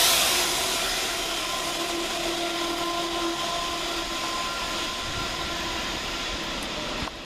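A railhead treatment train hauled by Class 66 diesel locomotives passing through the station: a loud rush of train noise that peaks at the start and slowly fades, with a few steady tones in it, then cuts off suddenly near the end.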